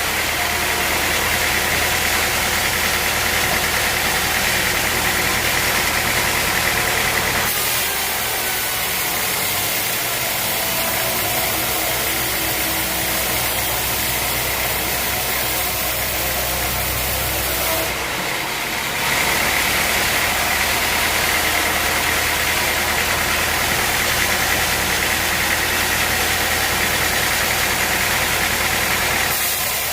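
Sawmill machinery running steadily with a constant engine-like drone; its sound changes about a quarter of the way in and again just past the middle.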